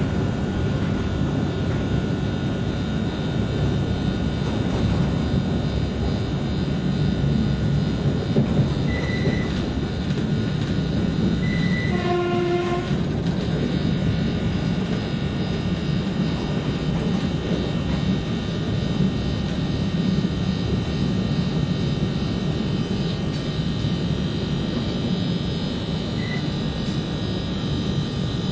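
Electric airport express train running at speed, heard from inside the carriage: a steady low rumble of wheels on rails and running gear. About twelve seconds in, a train horn sounds once, briefly.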